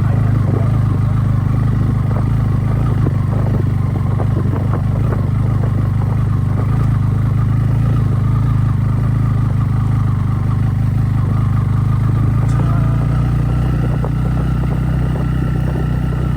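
Motorcycle engine running steadily while riding a rough dirt road, with frequent rattling and clatter over the bumps. Its note drops lower about thirteen seconds in.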